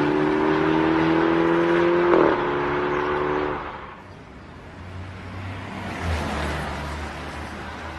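BMW X3/X4 with an aftermarket adaptive valve exhaust accelerating, its note rising steadily, with a short break about two seconds in. A little later it lifts off and drops to a quieter low rumble.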